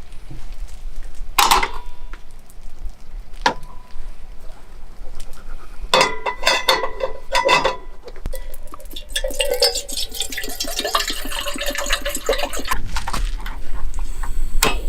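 Metal cookware and utensils clinking and knocking, with short ringing tones after some strikes, then a few seconds of denser scraping and rattling.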